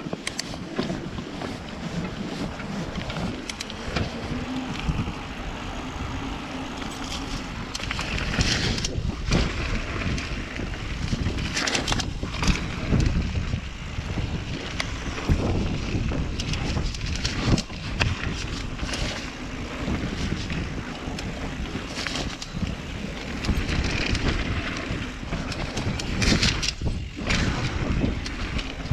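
Mountain bike rolling down a dirt trail: wind rushing over the microphone with tyre noise on dirt and frequent knocks and rattles from the bike over rough ground, and a few louder bursts of hiss along the way.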